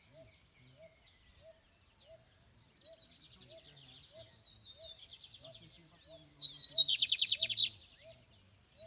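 Lined seedeater (bigodinho) singing: scattered high chirps, then a loud, fast trill of rapidly repeated notes from about six to eight seconds in. Underneath, a short low chirp repeats about twice a second.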